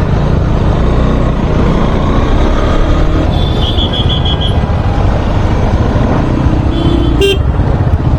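Wind rush and engine rumble of a motorcycle riding in traffic. About 3.5 s in comes a quick run of five short, high horn toots, and near the end one brief toot followed by a sharp click.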